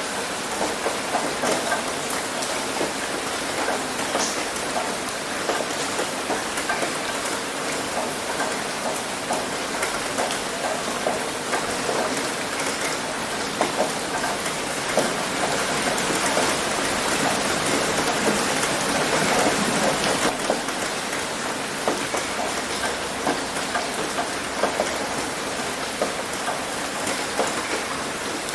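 Heavy rain hitting a roof: a steady wash of rain with many small sharp drop impacts, swelling slightly about two-thirds of the way through.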